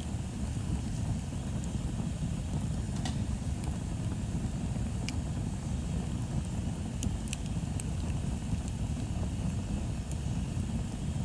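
Wood bonfire burning: a steady low rumble with scattered sharp crackles and pops of burning wood, a few close together about seven seconds in.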